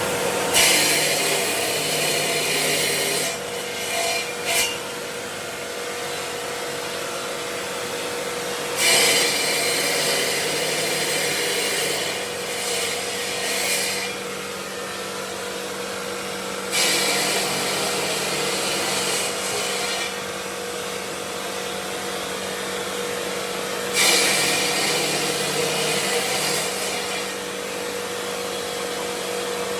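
A power tool working marble over a steady machine hum, with a harsh rasping surge about every eight seconds, each lasting about three seconds.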